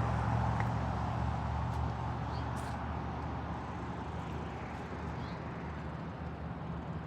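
Steady low hum of a motor vehicle's engine, with a rush of road noise that fades away over the first few seconds.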